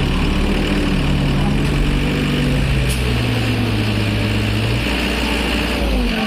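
Heavy truck diesel engine running steadily at low revs. Its note shifts about five seconds in, and a short falling tone follows near the end.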